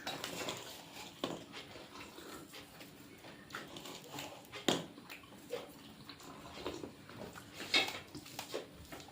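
Quiet eating sounds from a home meal: scattered small clicks, smacks and mouth sounds, with louder sharp clinks about halfway through and near the end.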